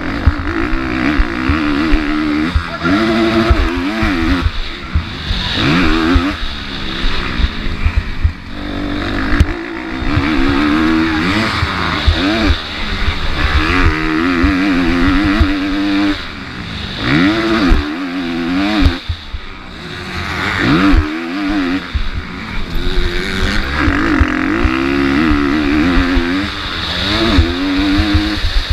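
Motocross bike engine revving hard and falling off again and again as it is ridden round the track, the pitch climbing and dropping every second or two. Heavy wind buffeting on the microphone underneath.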